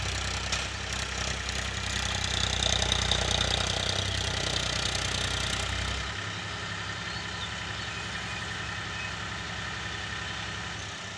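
Powertrac Euro 50 tractor's diesel engine running steadily. About six seconds in, its deep low note drops away and the sound becomes somewhat quieter.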